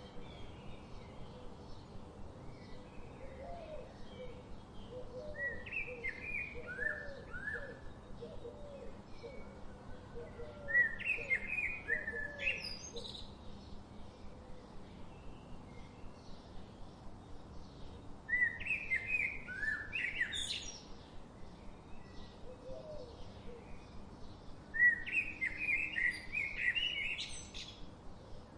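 A songbird singing four short, quick phrases several seconds apart, each ending in a rising sweep, with fainter low chirps in the first half. Underneath runs a faint, regular ticking about twice a second.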